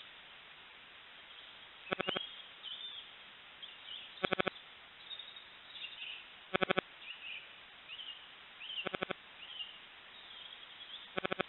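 Small woodland birds chirping and calling in short high notes, with a loud, short rapid rattle repeated five times at even intervals of about two and a half seconds.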